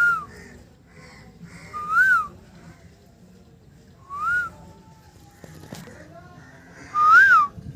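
A parrot whistling: four short clear notes that rise and fall in pitch, repeated about every two seconds.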